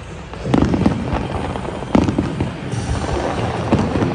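Aerial fireworks going off in quick succession: repeated booms and crackling, with the two loudest bursts about half a second and two seconds in.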